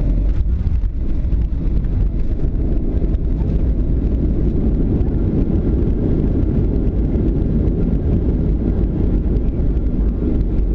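Steady low rumble inside the cabin of a Southwest Boeing 737 airliner around landing: engine and airflow noise heard through the fuselage.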